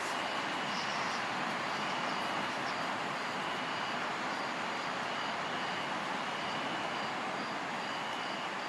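Steady rush of ocean surf, with insects chirping faintly in short, regularly repeated high pulses above it.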